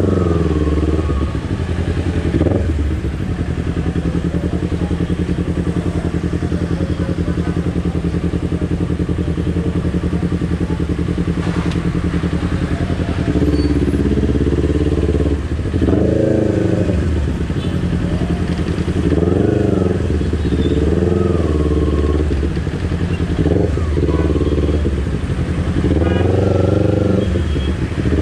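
Kawasaki Ninja 250 FI's parallel-twin engine running at low revs while creeping through traffic, with a run of short throttle blips in the second half, each rising and falling within about a second.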